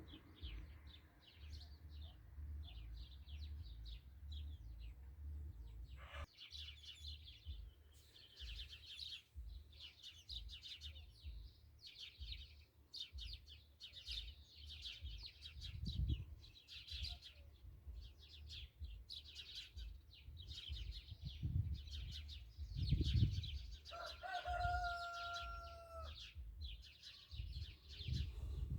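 Birds chirping and twittering without pause over a low rumble. About three-quarters of the way through, a single steady pitched call or tone is held for about two seconds.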